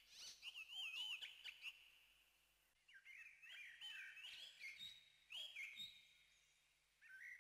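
Faint, high warbling bird song: scattered, wavering chirps over near silence.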